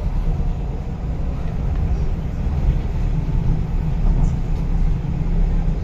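Electric MTR East Rail line train running, heard from inside the carriage: a steady low rumble of wheels on the track.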